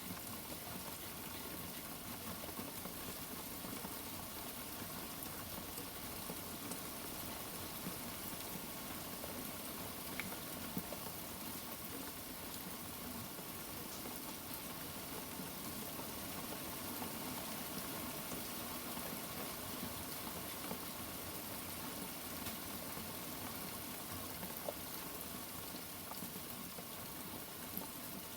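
Steady rain, an even hiss with a few faint drip ticks scattered through it; no thunder rumble.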